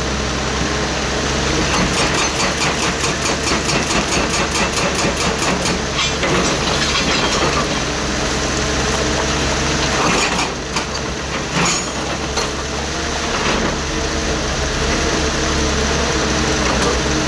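Excavator engine running steadily, with a fast regular clatter for a few seconds early on and a brief drop in loudness with a couple of sharp knocks near the middle.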